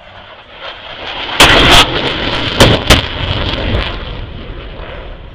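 Military jet making a fast low pass: its roar builds, peaks about a second and a half in with sharp cracking bursts that overload the microphone, then fades away.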